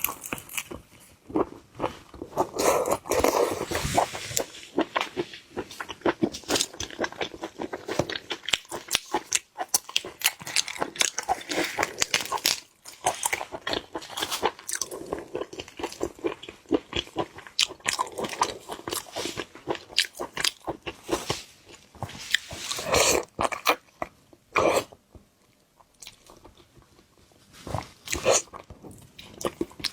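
Close-miked eating of seafood: dense, irregular crunching and chewing, with a short lull about three-quarters of the way through.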